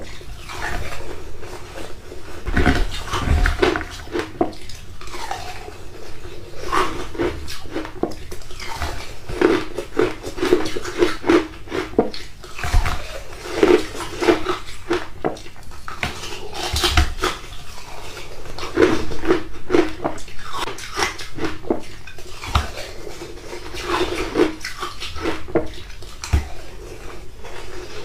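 Ice being bitten and chewed, a dense, irregular run of sharp cracks and crunches.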